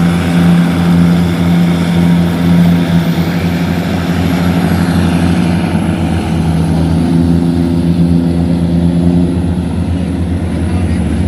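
Tugboat diesel engine running steadily with a low, even hum.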